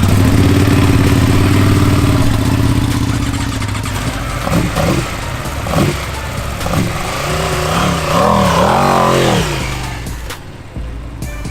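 Loud car engine held at steady high revs, followed by a few knocks, then revved up and down in quick blips about eight seconds in.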